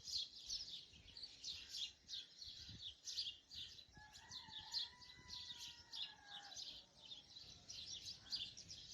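Faint, continuous chatter of many birds chirping, with rapid short high calls overlapping throughout. About four seconds in, a steady whistle-like tone is held for about two and a half seconds.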